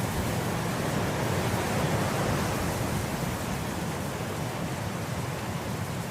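Wind blowing through grass: a steady, even rushing that swells slightly about two seconds in.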